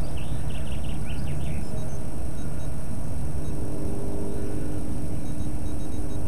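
Steady low rumble with a short run of quick bird chirps in the first second and a half, then faint steady tones in the background.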